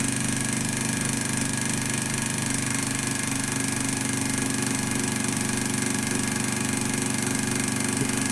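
Small candle-heated beta-type Stirling engine running fast and steady near its top speed of about 1550 rpm, a continuous even mechanical hum.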